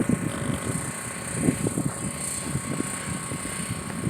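Youth motocross dirt bikes running around the track, with irregular low buffeting of wind on the microphone.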